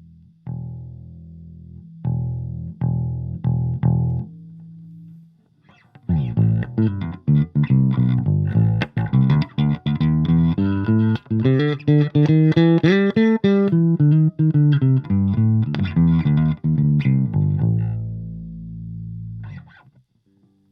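Electric bass guitar played through a Fender Rumble 25 compact combo bass amp. A few single notes are plucked and left to ring, then after a short pause comes a fast run of notes that climbs in pitch and comes back down. It ends on a held note that fades out.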